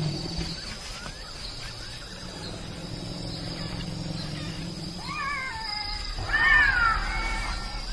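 Elephant calf crying twice: a short falling squeal about five seconds in, then a longer, louder one that rises and falls. A low steady hum lies under the first part.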